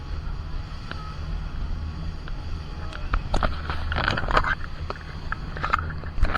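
Boat engine running with a steady low hum, with a cluster of short, sharp noises from about halfway through.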